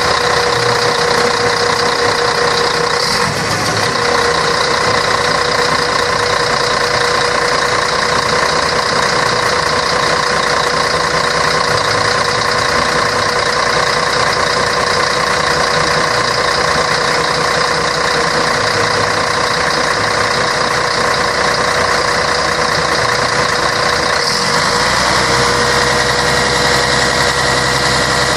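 Scania K113 bus's 11-litre straight-six diesel running steadily, with a steady high whine over the engine note. The note shifts slightly about 24 seconds in.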